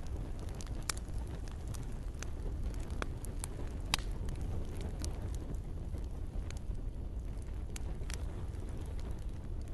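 Campfire crackling, with irregular sharp pops and snaps over a steady low rumble of burning wood. The loudest pop comes about four seconds in.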